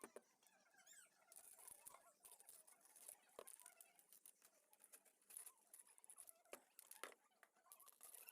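Near silence, with faint scratching and scattered light clicks, like small handling noises.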